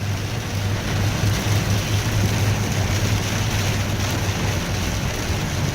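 Steady low hum of a Ford's engine under an even hiss of road and storm noise, heard from inside the moving vehicle's cabin.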